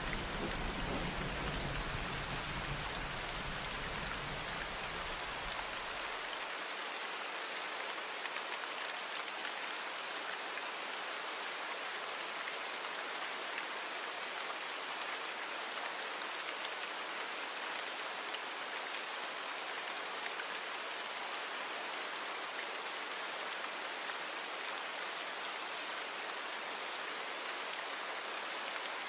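Steady rain, an even hiss of many drops on a surface. For the first six seconds or so a low rumble of thunder carries on beneath it, then stops suddenly.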